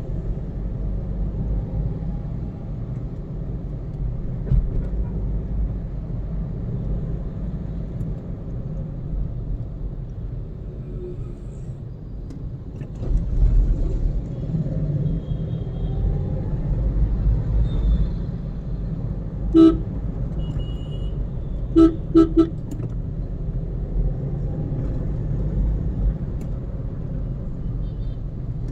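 Steady low rumble of a car driving in traffic, with car horns honking: one short honk about two-thirds of the way through, then three quick short honks a couple of seconds later.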